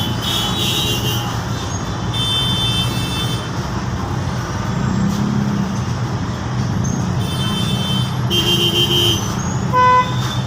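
Steady low rumble of heavy traffic at a railway level crossing, with several high-pitched horn honks about a second long and a loud, deeper horn blast starting near the end.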